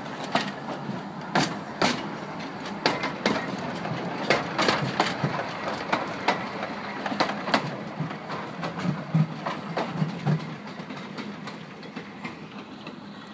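Narrow-gauge steam train's carriages rolling past, wheels clicking and clattering irregularly over the rail joints. It grows quieter over the last few seconds as the train draws away.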